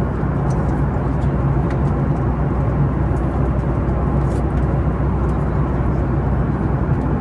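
Steady cabin noise of a Boeing 737 MAX 9 airliner in flight: an even rush of engine and airflow noise with a low hum, unchanging throughout.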